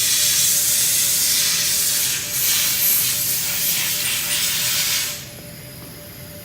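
Compressed air hissing from a blow-gun hose as the embroidery machine head is blown clean, in a long burst with brief dips, cutting off about five seconds in.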